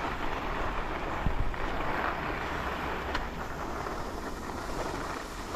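Wind buffeting an action-camera microphone, with the steady hiss of skis sliding on snow and a faint knock about a second in.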